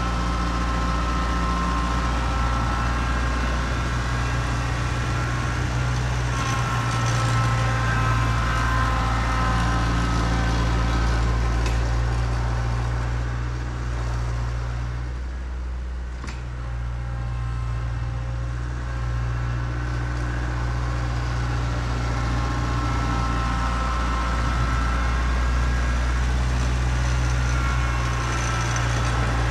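A vehicle engine idling with a steady low hum, easing slightly for a moment about halfway through.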